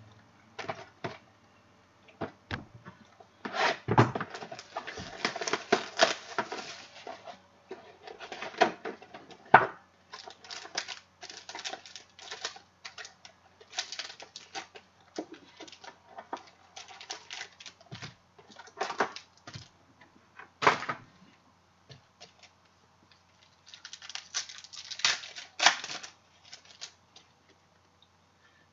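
A sealed trading card box and its packs being opened by hand: irregular bursts of crinkling wrapper and cardboard, with scattered clicks and taps of card handling.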